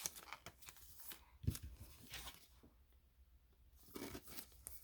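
Faint rustling and light taps of trading cards being handled, with a slightly louder tap about a second and a half in and a run of rustles near the end.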